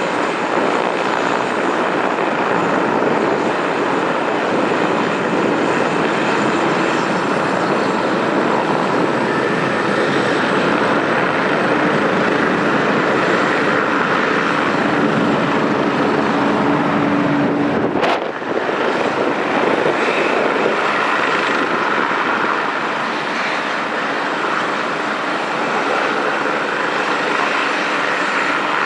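Aircraft engines running: a loud, steady rushing noise with a faint high whine. A single sharp click comes about two thirds of the way through.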